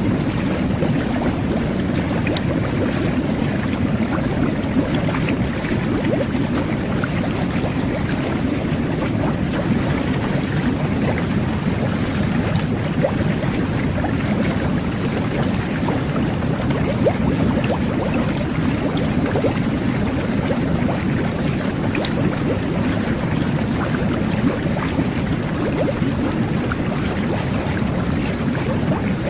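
Jet bath (whirlpool bath) running steadily: water churning and bubbling from the jets with a low rumble and scattered small bubble pops.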